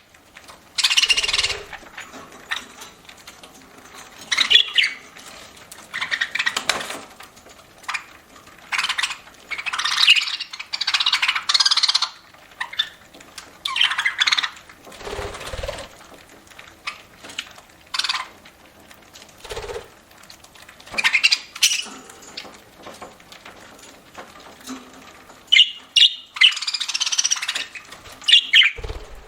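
Budgerigars chirping and squawking in irregular short bursts every second or two, with faint clicks between the bursts.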